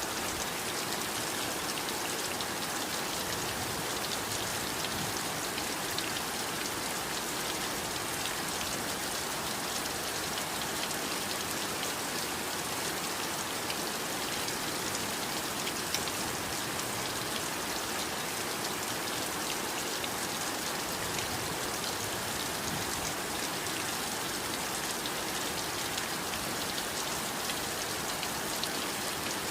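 Heavy rain falling steadily, a dense even hiss with many fine drop ticks and no letup.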